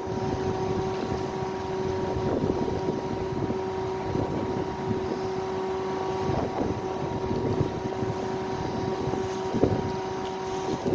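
Utility bucket truck engine running steadily with a constant whine. Wind rumbles on the microphone.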